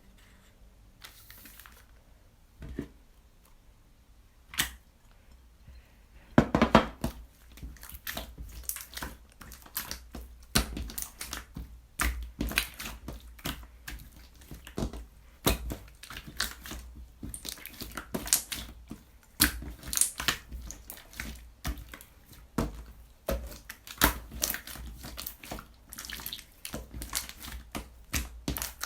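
Slime being squeezed, poked and stretched by hand, giving sticky clicks and crackles. There are only a few scattered clicks at first, then a dense, irregular run of them from about six seconds in.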